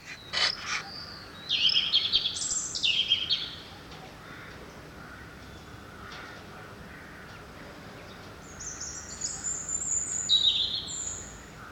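A songbird singing two short phrases of quick high notes that step up and down in pitch, the first about a second and a half in and the second near the end, over a steady faint background noise. A few sharp clicks come just before the first phrase.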